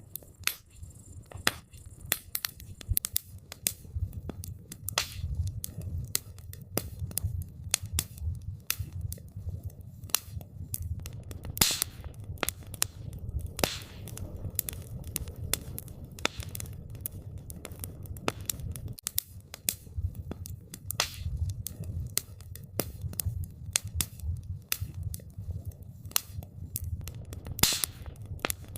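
Wood fire burning, crackling and popping in irregular sharp snaps over a low rumble, with a few louder pops.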